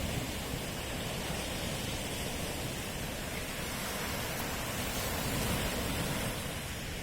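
Sea waves washing onto the shore, a steady rush of surf that swells a little after five seconds.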